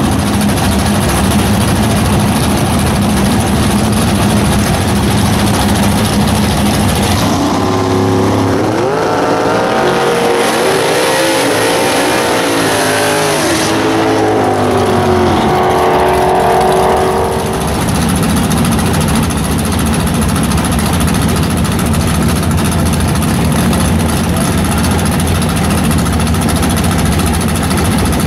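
Small-block Mopar V8 with W7 heads in a Plymouth Duster drag car, running loud and steady. Through the middle it is revved up and down several times, then it settles back to a steady loud run near the end.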